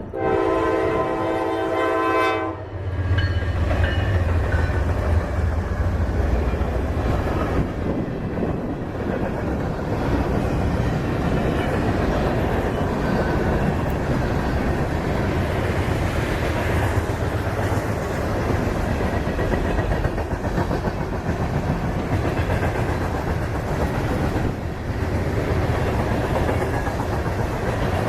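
Freight train's diesel locomotive air horn sounding a chord and cutting off about two and a half seconds in, then the diesel locomotives passing with a deep engine rumble. The rest is the steady rolling and clatter of freight cars going by on the rails.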